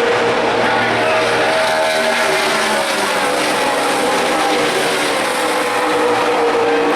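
NASCAR Sprint Cup stock cars with pushrod V8 engines running at speed around the track. The sound is a loud, steady roar, with several engine notes sliding slowly down in pitch as the cars pass.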